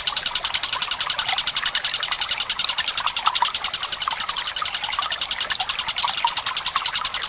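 Tengkek buto calling in a long, fast, even rattling trill of well over ten notes a second, held without a break, with water trickling softly beneath it.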